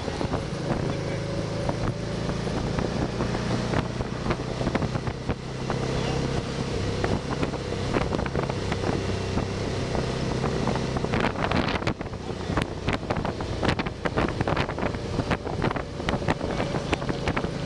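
Can-Am Spyder three-wheeled motorcycle running at road speed, its engine a steady low hum under heavy wind noise on the microphone. From about the middle on, rapid clicks and knocks break through.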